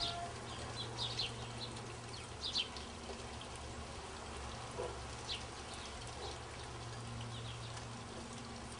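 Outdoor ambience: a few short, faint bird chirps scattered over a steady low hum.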